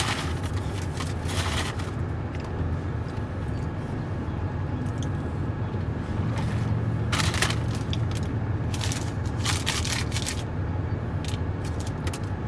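Car engine idling, a steady low hum heard inside the cabin, with several brief rustling, crinkling noises: near the start, about seven seconds in, and again around nine to ten seconds.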